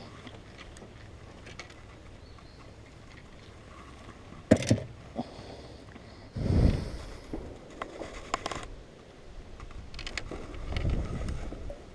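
Sharp knocks and clatter in a small aluminium jon boat, the loudest about four and a half seconds in and more near nine seconds. A low rumbling gust of wind on the microphone comes between them.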